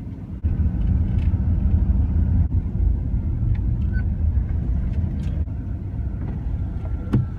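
Cargo van on the move: steady low engine and road rumble, stepping up about half a second in, with one sharp click near the end.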